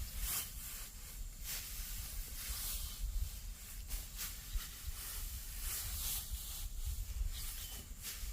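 Irregular rustling and swishing strokes, like dry plant material being handled, over a low rumble.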